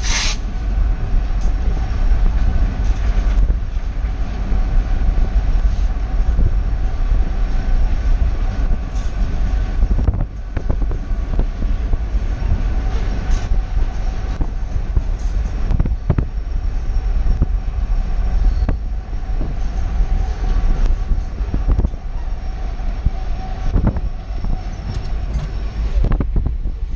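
BNSF six-axle diesel locomotive, working as the rear distributed power unit of a freight train, running at speed: a steady rumble of engine and rolling wheels with a steady tone over it, heard from a car driving alongside with wind and road noise. A brief sharp noise comes right at the start and a few short knocks follow.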